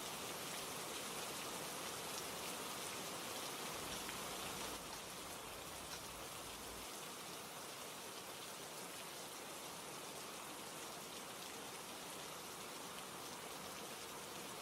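Steady rain ambience: even rainfall noise with no distinct events, dropping slightly in loudness about five seconds in.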